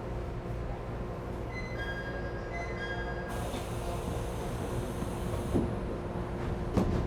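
ET127 series electric railcar standing with its doors about to close: a steady electrical hum carries on throughout. About a second and a half in comes a short chime of alternating high tones, then a hiss of air for about two seconds. Two thumps follow, the second louder, near the end, as the doors shut ahead of departure.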